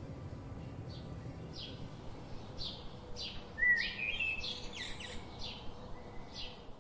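A bird chirping: short high notes repeated about twice a second, with a louder rising call about halfway through.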